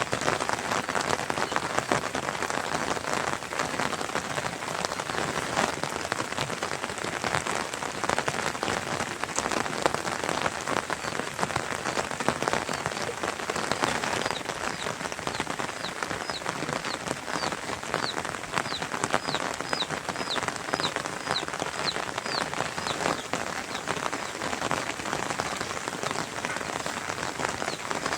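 Steady rain falling, a dense patter of drops. In the middle stretch a run of short, high chirps repeats about twice a second for several seconds.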